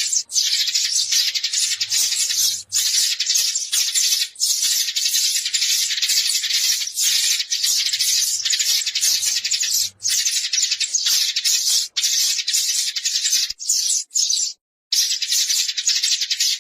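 A flock of sparrows chattering: a dense, unbroken run of rapid high chirps, the flock-calling sound used as a lure to draw wild sparrows in. It breaks off briefly near the end before resuming.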